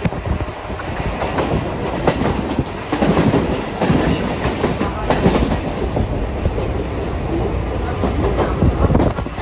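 Mumbai suburban local electric train running, heard from on board: a steady rumble of the wheels on the track, with irregular clacks as they pass over rail joints and points.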